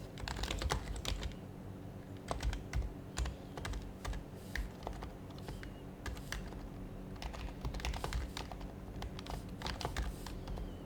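Typing on an HHKB Professional HYBRID Type-S keyboard (quiet Topre electrostatic-capacitive switches), in irregular bursts of soft keystrokes with short pauses between them, over a low steady hum.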